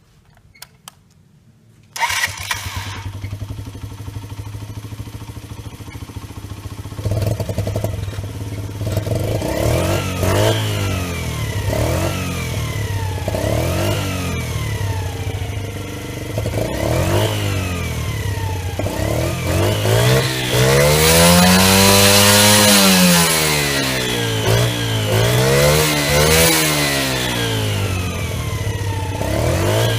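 A 50 cc four-stroke Romet CRS 50 motorcycle engine, breathing through an aftermarket imitation Akrapovič exhaust, starts after a few faint clicks about two seconds in and idles. It is then blipped over and over with short throttle stabs, with two longer, higher revs rising and falling in the second half.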